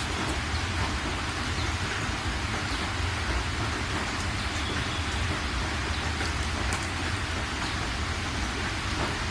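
Steady rain falling: a dense, even hiss of drops with a low rumble underneath and scattered sharp drop ticks.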